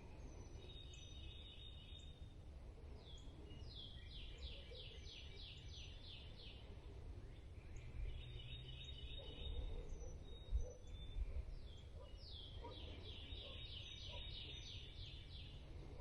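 Woodland songbirds singing: two runs of quick, repeated down-slurred whistled notes and trills, several seconds apart, over a low outdoor rumble. There is a soft low thump about ten seconds in.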